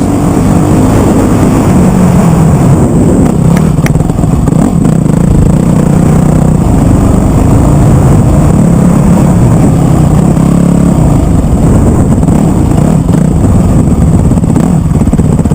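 Motocross bike engine running loud and close, its pitch rising and falling as the rider works the throttle through the track.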